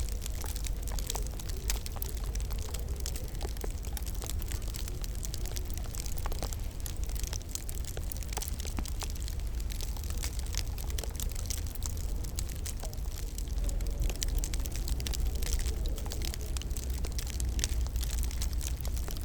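Wood fire crackling in a fireplace: a dense run of small pops and snaps over a low steady rumble.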